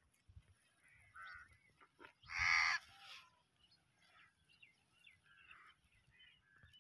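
Outdoor bird calls: one loud call about two and a half seconds in, a smaller one just after a second, and faint chirps scattered around them.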